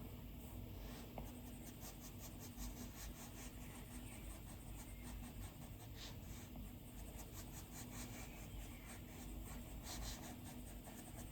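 Stylus tip stroking and tapping on an iPad's glass screen while drawing: a quick, irregular run of faint ticks and light scratches, several a second.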